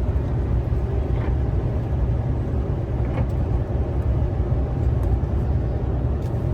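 Steady low drone of a semi-truck's engine and tyres heard from inside the cab while driving at cruising speed.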